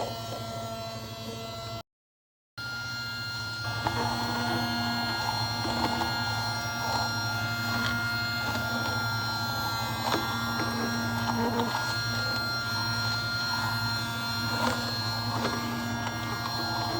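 Small USB-powered motor of a tiny handheld vacuum running with a steady hum and whine. It cuts out briefly about two seconds in. From about four seconds on, a rougher rushing noise and scattered light knocks join it.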